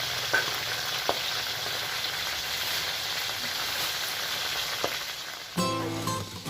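Food frying in hot oil: a steady sizzle with a few sharp clicks. Guitar music comes in near the end.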